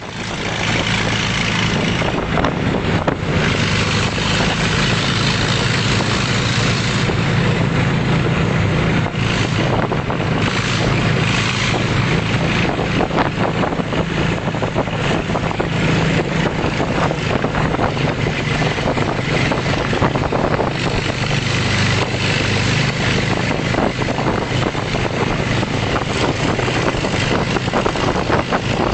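Tractor engine running at a steady speed throughout.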